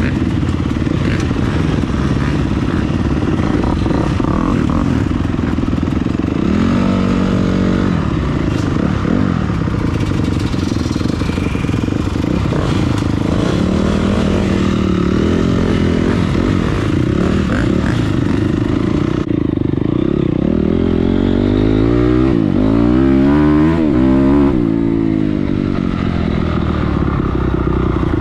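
Dirt bike engines revving up and down while riding a motocross track, the pitch rising and falling through the throttle and gears, with a busy stretch of rapid rises and falls about two-thirds through.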